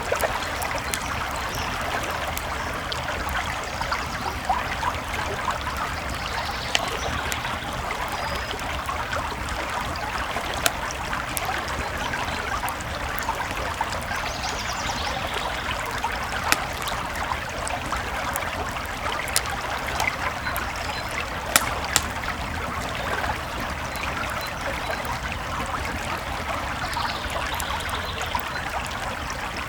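Creek flowing steadily with a wood campfire crackling over it, and a few sharper pops now and then.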